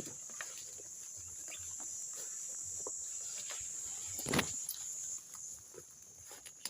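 A steady high-pitched insect drone of the forest, fading about five seconds in, with scattered clicks and rustles of footsteps and twigs and one louder knock about four seconds in.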